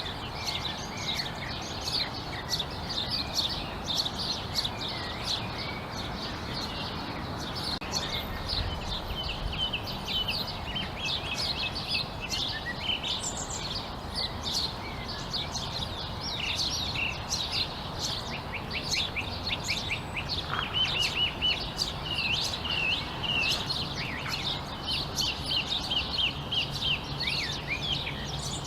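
Many small birds chirping and twittering at once in an evening chorus, over a steady low background rumble. About two-thirds of the way in, one bird gives a quick run of repeated falling notes.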